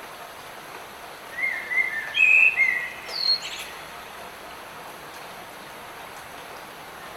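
Steady hiss of light rain, with a bird singing one short phrase of several quick whistled notes about a second in, ending on a higher note.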